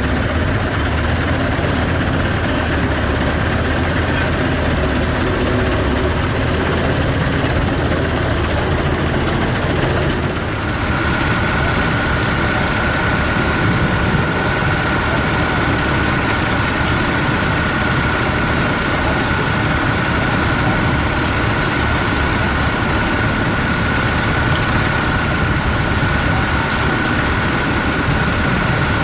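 Tractor engine running steadily. About ten seconds in the sound changes and a steady high whine joins the engine.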